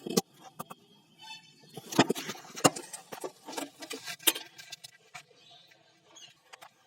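A few irregular sharp clicks and taps, roughly a second apart, the loudest about two seconds in.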